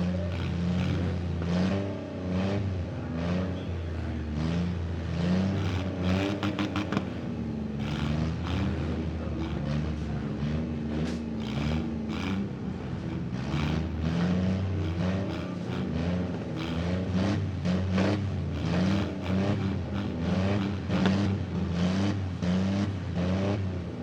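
Several demolition derby cars' engines running at once, their pitch rising and falling as drivers rev them, with scattered sharp clatters.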